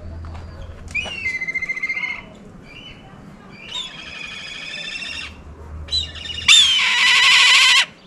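A bird calling loudly: three long, wavering calls about a second or more each, the last and loudest near the end.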